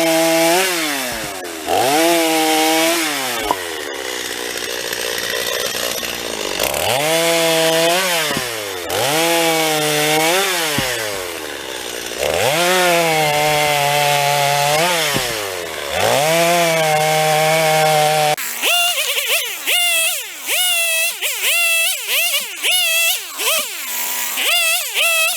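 Stihl MS 250 two-stroke chainsaw repeatedly revving up to speed and dropping back to a steady idle between cuts through firewood logs. In the last several seconds it gives a quicker series of short revs.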